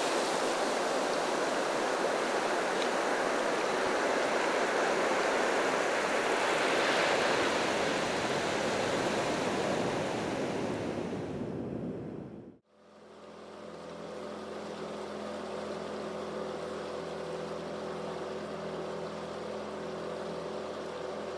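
A steady, loud rushing noise, fading away over about the last second and a half before it cuts off about twelve and a half seconds in. It is followed by a quieter, sustained drone of several held low tones.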